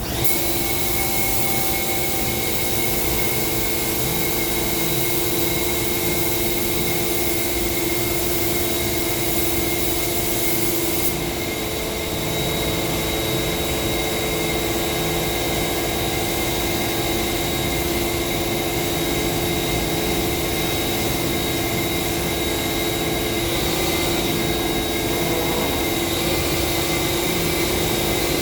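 Spray-painting equipment running continuously: a steady machine hum under a strong airy hiss, the highest part of the hiss dropping back about eleven seconds in.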